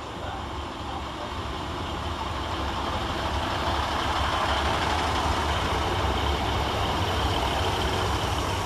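Diesel multiple unit running through the station: a low engine rumble with rail and wheel noise that swells to its loudest midway, then eases near the end.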